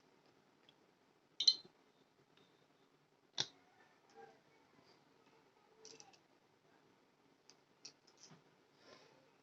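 Scattered small clicks and taps of drawing materials being handled, with two sharper clicks about one and a half and three and a half seconds in, then lighter ticks near the end.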